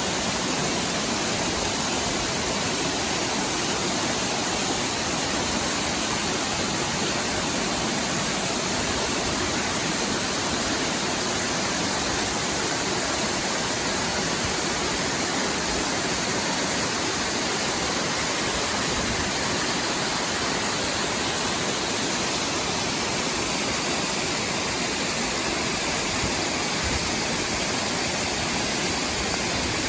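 A powerful waterfall pouring down in a steady, unbroken rush of water.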